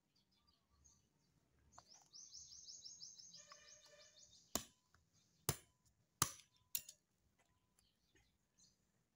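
A bird's rapid, high-pitched chattering trill lasting about two and a half seconds, followed by four sharp clicks close together, the loudest sounds, from bamboo sticks being handled while the trap is set.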